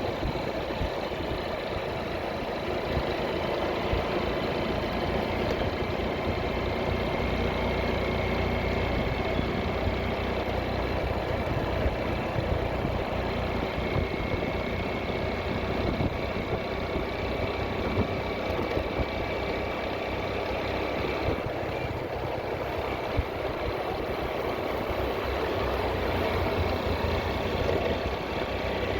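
Motorcycle engine running steadily while riding, with continuous road and rushing noise.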